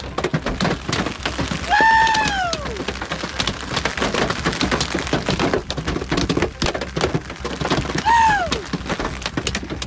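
Hailstones pelting down in a dense, continuous clatter of hard impacts. Two brief pitched cries slide downward, about two seconds in and again near the end.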